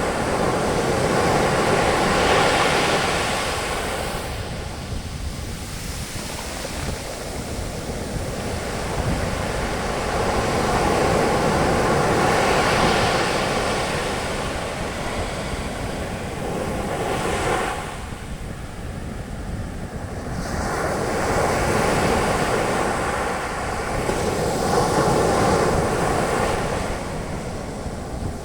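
Sea waves breaking on a beach and washing in as foaming surf, the hiss swelling and easing every few seconds.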